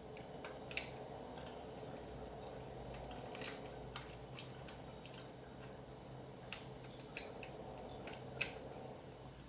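Scattered small clicks and taps of hands and tools working on an electrical socket and its parts, with two sharper clicks, one about a second in and one near the end, over a faint steady hum.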